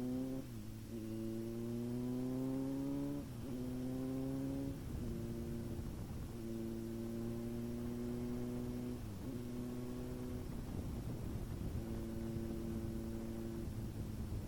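Kawasaki Z900's inline-four engine under way, its pitch climbing and dropping back sharply three times in the first five seconds, then holding steady with one more brief dip about nine seconds in.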